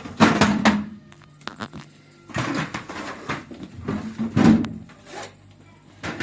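Several loud clusters of knocks and rattles from hands working on a refrigerator, over a faint low steady hum from its compressor, which has just started while the evaporator fan stays silent.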